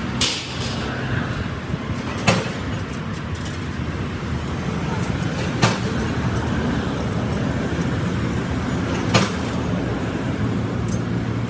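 A steady motor hum with sharp metallic clinks, four of them a couple of seconds or more apart.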